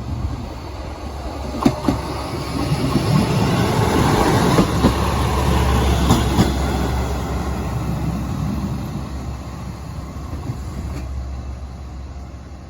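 JR West KiHa 120 single-car diesel railcar running slowly into the station, its diesel engine rumbling and its wheels clacking over rail joints. The sound swells to its loudest about midway, with a few sharp clacks, then fades as it slows.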